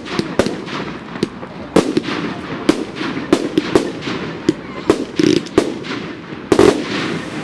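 Fireworks going off in a rapid, irregular string of sharp bangs and crackles, several a second, with a louder, longer burst about two thirds of the way through.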